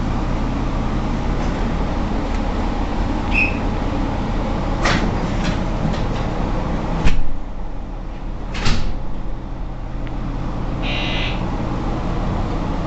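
Train carriage in motion: a steady low rumble, with a few sharp knocks and clatters. The loudest knock comes about seven seconds in, after which the rumble is briefly duller, and a short rattle follows near the end.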